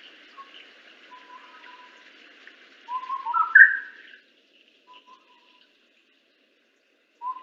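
A recorded Sri Lanka scimitar babbler calling. About three seconds in comes a fluty phrase of notes that climb in pitch step by step, and the same phrase begins again near the end. Fainter short notes between them are a second bird calling far off.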